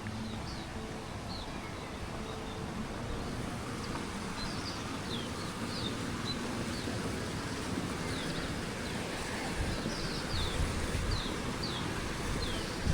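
Small birds chirping over and over in short, high calls that slide downward, over a steady outdoor background hum. Low wind rumble on the microphone builds near the end.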